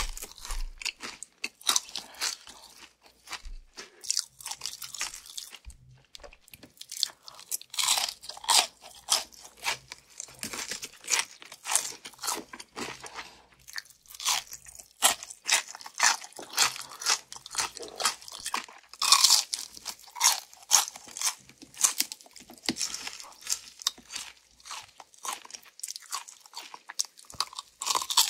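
Close-miked crunching and chewing of crispy fried chicken, a steady run of sharp, crisp bites and chews.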